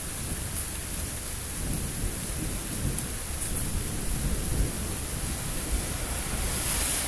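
Thunder rumbling over steady rain. The low rumble builds about a second and a half in and is strongest around the middle. The rain hiss grows heavier near the end.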